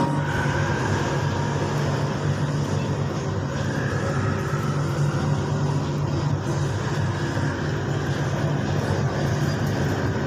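Kuala Lumpur LRT train running on elevated track, heard from inside the car as it pulls out of a station: a steady running rumble with a low hum and a faint whine that comes and goes.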